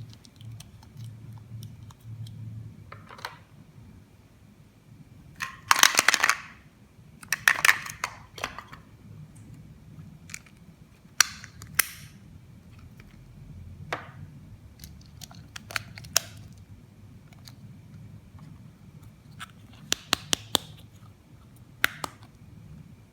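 Plastic toy pieces being handled: scattered sharp clicks and taps, with two longer, louder noisy bursts about six and seven and a half seconds in.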